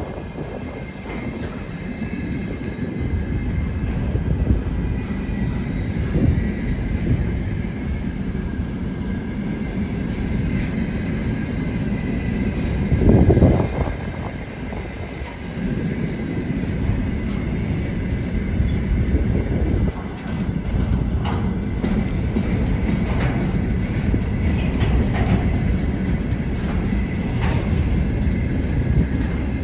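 Container freight train rolling past: a steady low rumble with wheels clacking over rail joints and a faint high steady tone. There is a louder surge about thirteen seconds in.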